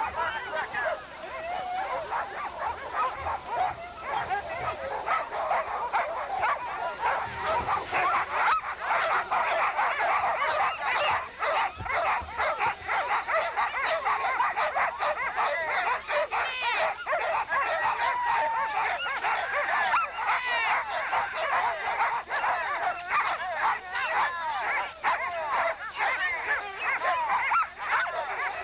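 Many sled dogs barking and yelping together in a dense, unbroken chorus of overlapping high yips.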